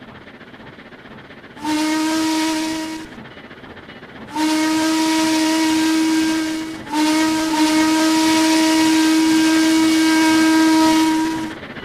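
Steam locomotive whistle blowing three blasts, one short and two long, each a steady single pitch with a breathy hiss of steam.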